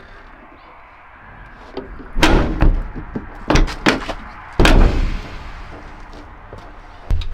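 Steel cab door of a 1970 Chevrolet C10 pickup being shut with a run of heavy thuds, about five knocks over two and a half seconds, the last and loudest ringing briefly: the door closing against freshly fitted weather stripping.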